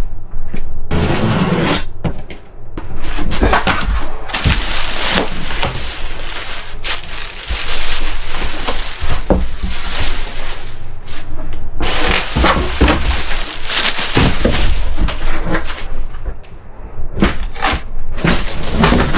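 Packaging for a recliner being torn open and handled: loud crackling and rustling with scattered knocks and clicks.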